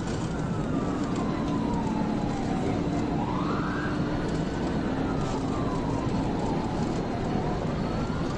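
Police car siren wailing in a slow rise and fall, about four seconds per cycle, over steady road and engine noise of the pursuing patrol car.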